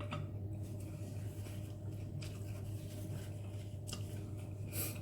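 Faint eating sounds: noodles being chewed, with a few light clicks of utensils against the bowl, over a steady low hum.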